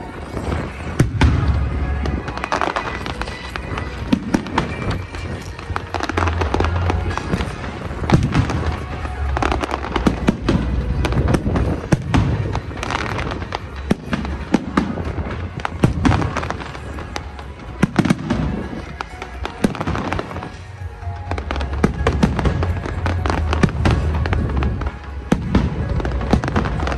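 Fireworks display finale: a dense run of sharp bangs and crackles, with deep booms every couple of seconds, over music.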